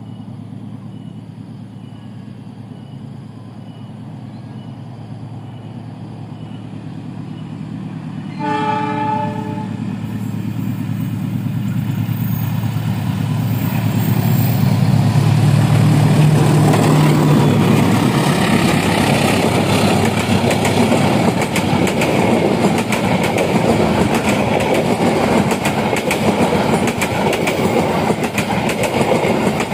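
A diesel locomotive hauling a passenger train approaches, growing steadily louder, and sounds its horn once, briefly, about eight seconds in. The engine is loudest as it passes about halfway through, then the passenger coaches roll by with wheels clicking over the rail joints.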